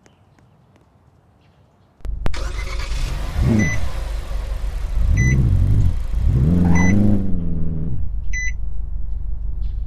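A car engine comes on suddenly about two seconds in and is revved up and down three times, the last rev the longest. Short high beeps sound four times. The engine then keeps running.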